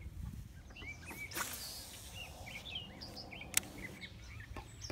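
Small birds chirping with short, repeated calls over a low outdoor rumble, with one sharp click about three and a half seconds in.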